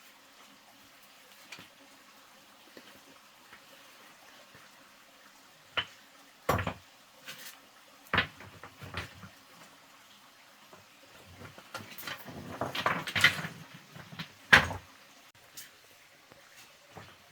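A few sharp knocks and a short run of clattering from hard objects being handled and set down, loudest about two-thirds of the way through.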